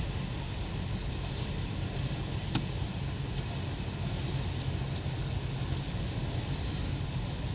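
CN freight train's cars rolling past: a steady rumble and hiss of steel wheels on the rails, with one sharp click about two and a half seconds in.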